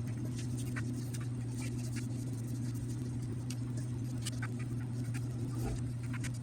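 Scattered light clicks and taps of metal bicycle parts and hand tools being handled during reassembly, over a steady low hum.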